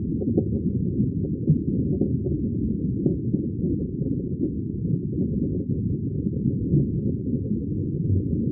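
Underwater bubbling ambience: a steady, deep, muffled rumble of water and bubbles, with nothing bright or high in it.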